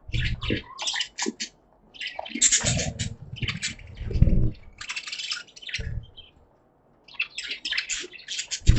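Budgies chattering in a cage: three bouts of rapid, scratchy chirps with a short pause between the last two, mixed with a few low thuds, the loudest near the end.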